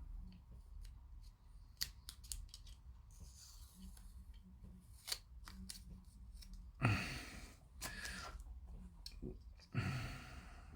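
Scattered small clicks and snips of plastic model-kit parts being handled, with two louder breaths, about seven and ten seconds in.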